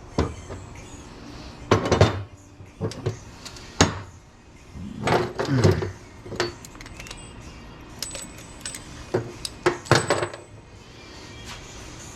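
Metal pieces from dismantled electrical switchgear clanking and clinking as they are handled and dropped: a string of irregular sharp knocks, some ringing briefly, spaced a second or two apart.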